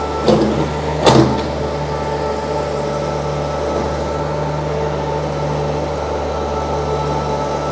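Stand-on mini skid steer's diesel engine running steadily under load while the boom, bucket and drive hydraulics work at the same time, with two loud clanks about a second apart near the start.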